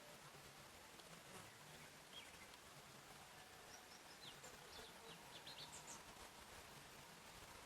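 Faint forest ambience: distant birds giving short, high chirps, most of them clustered a few seconds in, over a soft steady hiss.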